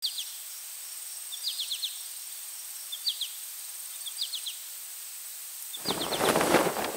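A small bird calls over a steady outdoor hiss: short groups of three or four quick high notes, repeated about every second and a half. Music comes in loudly near the end.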